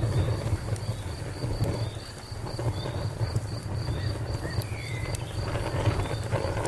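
Wood fire crackling over a low rumble, with a few sharp pops. A cricket chirps steadily in a fast, even rhythm.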